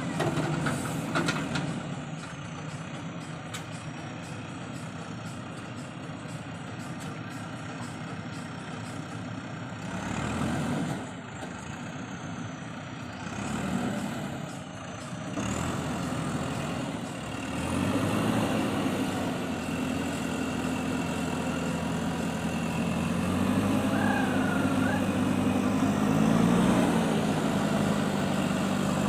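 Heavy diesel engines running and revving, surging in pitch and loudness several times, then working harder and louder from about two-thirds of the way in with a rev near the end. This is a JCB 3DX backhoe loader under load as it tries to pull a Mahindra tractor free from being stuck with an overload of soil.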